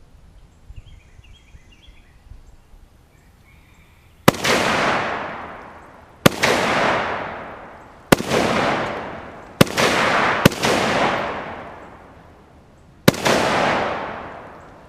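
Six single shots from an AK-47 rifle firing 7.62x39 full metal jacket rounds. The shots are unevenly spaced, a second or two apart, with two close together about ten seconds in. Each crack is followed by a long echo that dies away.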